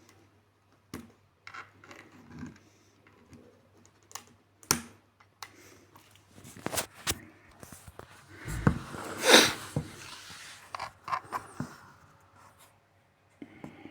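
Scattered computer mouse and keyboard clicks, with one louder rustling scrape about nine seconds in.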